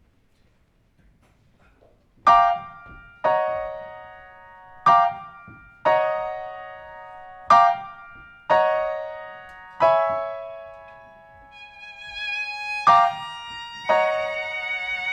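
Piano playing a slow series of single struck chords, each left to ring and fade, starting after about two seconds of near silence. From about eleven seconds in, bowed strings join with held notes under further piano chords.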